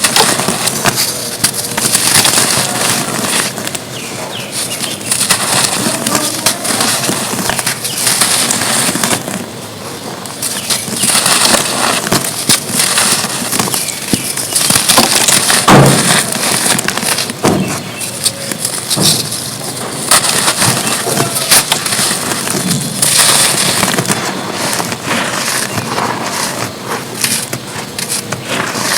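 Dry red dirt cones being crumbled and crushed by hand: dense, crisp crackling and crunching made of many small clicks, with a couple of sharper snaps a little past the middle.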